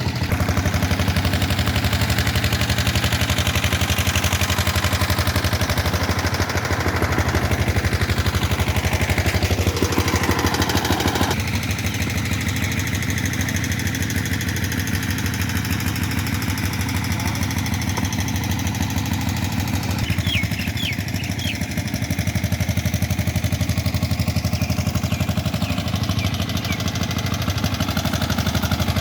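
Diesel engine of a generator set running steadily at a constant speed, with an even, rapid firing pulse.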